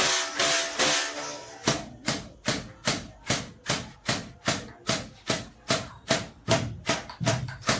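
Cotton-fluffing bow: a wooden mallet striking the taut bowstring in a steady rhythm, about two to three sharp strokes a second. The first second and a half holds a longer ringing sound with several steady tones before the even strokes take over.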